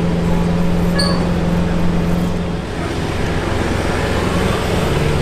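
Lamborghini Centenario's V12 engine idling with a steady hum that weakens briefly a little past halfway, over street traffic noise.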